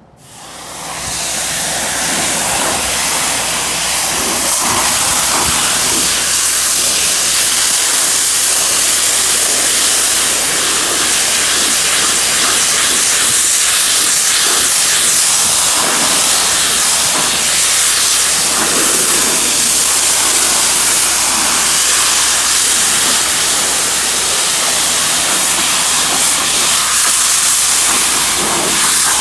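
Cleaning machine running for the carpet cleanup: a loud, steady rushing hiss with a low motor hum under it, building up over the first second or two.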